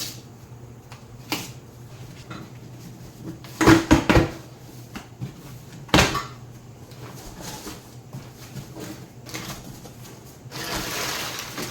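Cardboard box being opened and the metal exhaust X-pipe inside handled: scattered knocks and bumps, the loudest a cluster about four seconds in and a sharp one about six seconds in, then a rustle of packaging near the end, over a steady low hum.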